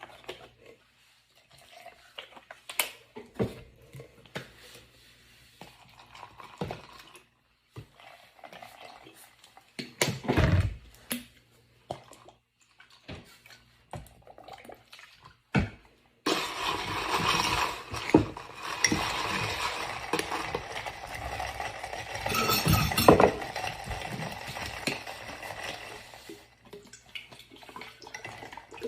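Kitchen sounds: scattered knocks and clinks of dishes and cutlery, then a rush of running water that starts suddenly about halfway through and tails off near the end, with dishes clattering over it.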